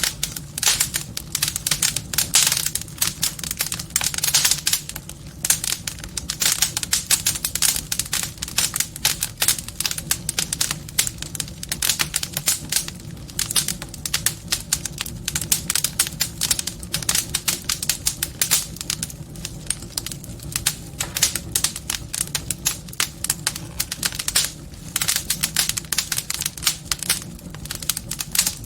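Wood fire crackling in a fireplace: a dense, irregular stream of sharp pops and snaps, busier in some stretches, over a low steady rumble of the burning.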